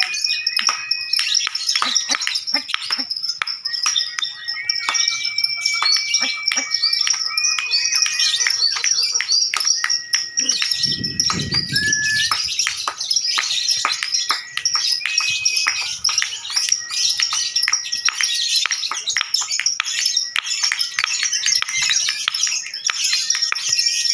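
Lovebirds chattering in a long, unbroken ngekek song: dense, rapid, high-pitched chirps and clicks, with several held whistle-like notes laid over them. A short low rumble comes about eleven seconds in.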